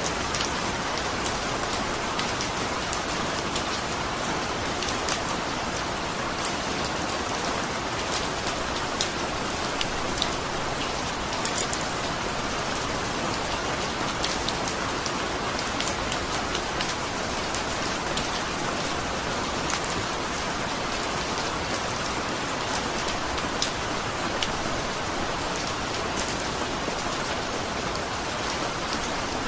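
Steady rainfall: an even hiss of rain with many small drops pattering and ticking on a surface.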